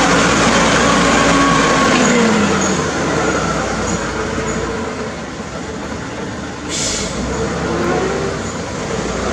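Hino truck running under way, a steady rumble with its engine note dropping in pitch about two seconds in. A brief hiss near the end.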